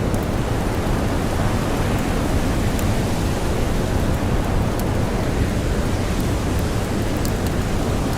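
Strong blizzard wind and blowing snow: a dense, steady rushing noise, heaviest in the low end, with a few faint, sharp crackles of a campfire scattered through it.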